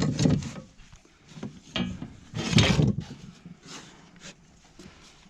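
Wooden framing lumber being handled: several knocks and scrapes of boards against each other and against the work surface.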